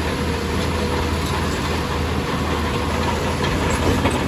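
Heavy diesel earthmoving machinery running steadily: a constant low engine drone with mechanical clatter over it.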